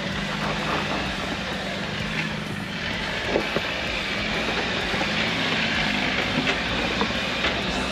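Off-road 4x4 driving along a dirt trail: a steady engine note under continuous tyre and gravel noise, with a few short knocks from stones.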